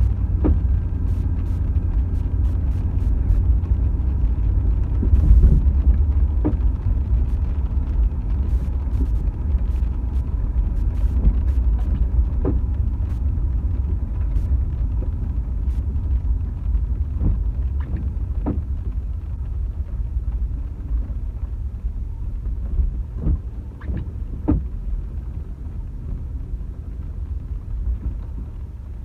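Steady low rumble of a car driving, its road and engine noise filling the low end, with scattered light taps and clicks throughout, more frequent in the second half.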